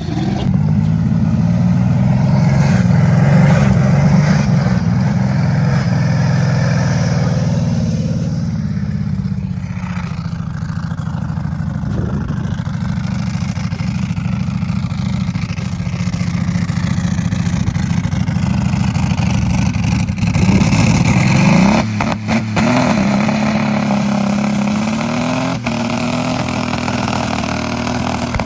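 Turbocharged Dodge Dakota's engine run hard at high revs, its note mostly steady for long stretches. About twenty-one seconds in it sweeps up and drops sharply, and it climbs again briefly a few seconds later.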